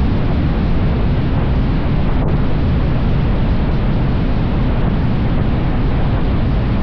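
Motorcycle riding at a steady speed: engine hum under heavy wind rush on the microphone, an even, unbroken noise.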